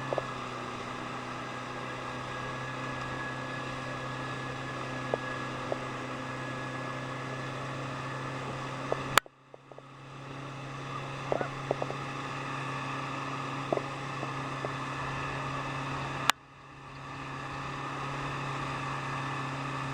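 Boat engine running at a steady pitch while towing a kayak. Two sharp clicks, about nine and sixteen seconds in, are each followed by the sound dropping away and swelling back.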